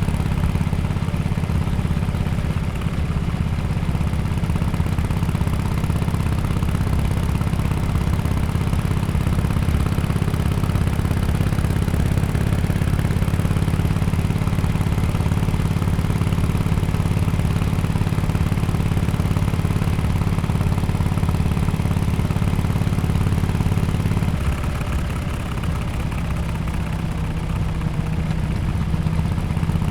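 2017 Harley-Davidson XL1200X Forty-Eight's air-cooled 1200 cc V-twin running through an aftermarket exhaust at a steady, low engine speed. About 24 seconds in, the note drops and quietens, then starts to pick up again near the end.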